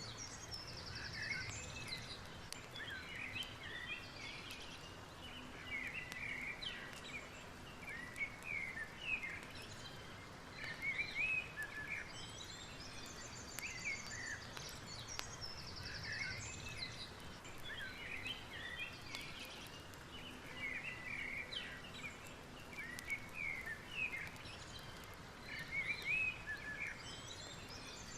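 Wild birds singing in short chirps and whistling phrases, with a buzzing trill coming back every dozen seconds or so, over a steady low background noise. The same stretch of birdsong repeats about every 14 seconds.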